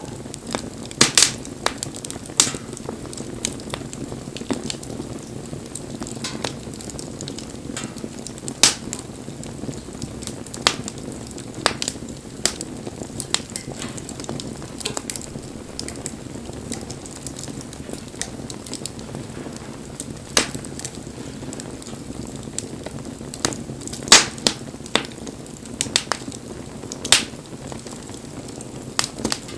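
Wood bonfire burning: a steady low hiss with frequent, irregular sharp crackles and pops, a few of them much louder than the rest.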